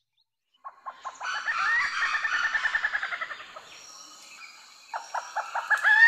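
Forest birds calling in rapid runs of short notes, some sliding upward. One run starts about a second in and another about five seconds in, over a steady high hiss.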